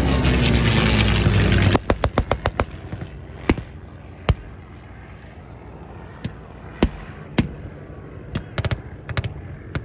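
A P-51 Mustang's piston engine passing, its pitch falling slowly, cut off abruptly about two seconds in. Then reenactors' blank gunfire: a quick run of about eight shots, followed by scattered single shots every second or so.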